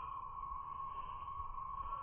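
A steady high-pitched hum that holds one pitch without change.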